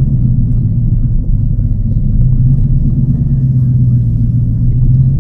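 TVR Chimaera's 4.65-litre V8, bored out with a race cam, running steadily while the car drives along, heard from inside the cabin; its pitch steps up slightly about two seconds in.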